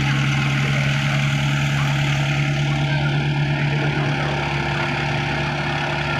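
Tractor diesel engine running steadily with an even low drone.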